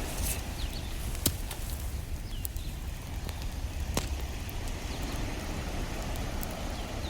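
Campfire crackling, with a few sharp wood pops (the strongest about a second in and again about four seconds in), over a steady low rumble of ocean surf.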